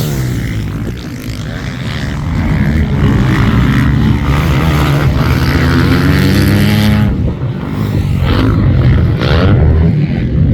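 Motocross dirt bikes racing on a dirt track, engines revving hard and shifting, their pitch rising and falling as the bikes pass.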